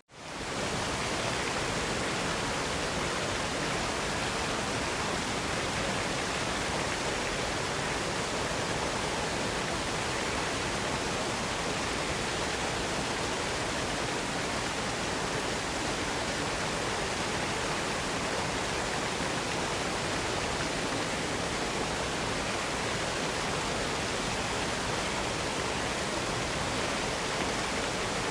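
Waterfall: a steady, even rush of falling water, swelling up from a brief silence right at the start.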